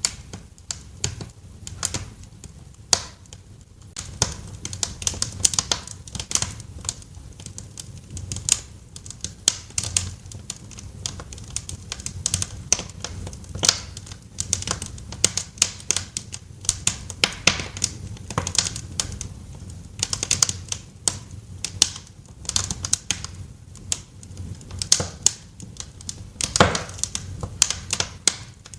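Wood fire crackling in a fireplace: irregular sharp pops and snaps, several a second, over a low steady rumble of the flames, with one louder snap a little before the end.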